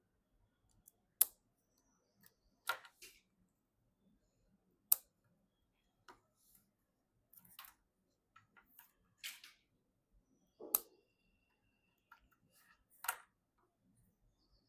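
PC hardware being handled during assembly: scattered sharp clicks, the loudest about one, five and eleven seconds in, with short rustling scrapes between them.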